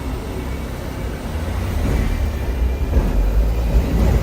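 Hong Kong double-decker tram running along its rails, heard from on board as a steady low rumble that grows louder about a second and a half in.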